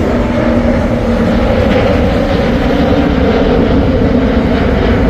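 Loud, steady jet airliner engine noise from a plane taking off close by, mixed with heavy lorries passing on the road. A deep rumble runs under a few held engine tones that sag slightly in pitch.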